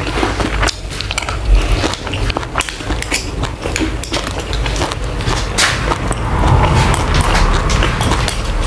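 Close-miked, wet chewing and mouth smacks of a person eating a mouthful of seafood stir-fry and rice, with many short clicks, plus a gold spoon and fork clinking and scraping on the plate.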